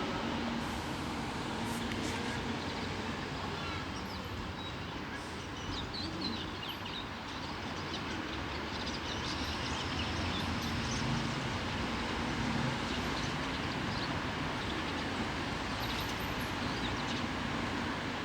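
Steady outdoor background noise, with faint short high chirps scattered through it.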